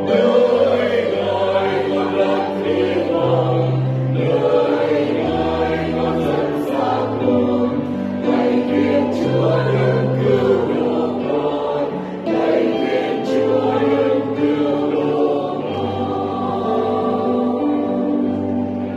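Choir singing a Vietnamese church hymn in harmony, with sustained chords over slowly changing bass notes.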